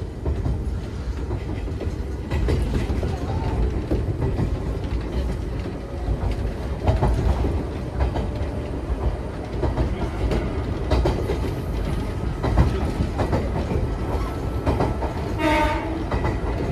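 Nagano Electric Railway 3500 series electric train running, heard from inside the passenger car: a steady rumble of wheels and running gear with the clickety-clack of rail joints. A brief pitched tone sounds near the end.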